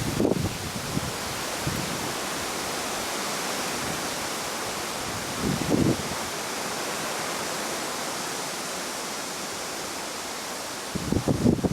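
Wind blowing with a steady rushing hiss, with short low gusts buffeting the microphone just after the start, about halfway through, and near the end.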